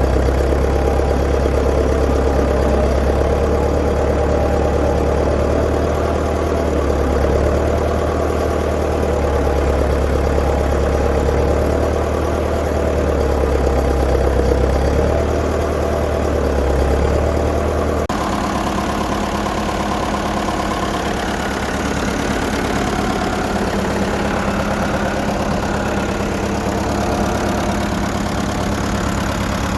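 1959 Fordson Power Major tractor engine running steadily, with an abrupt change in its sound about eighteen seconds in.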